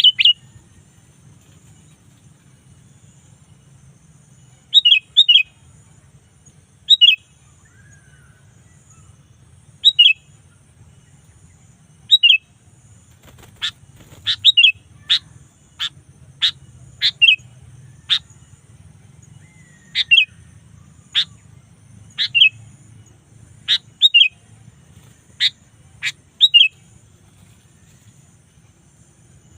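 Sooty-headed bulbul (kutilang) calling: short, bright chirps every two or three seconds. About halfway through they are joined by a quick run of sharp, falling whistled notes, roughly one a second.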